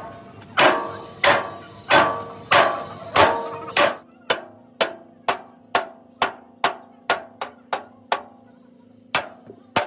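Hammer striking steel, a series of ringing metallic blows. About six heavy strikes come roughly two-thirds of a second apart, then a run of lighter, quicker taps.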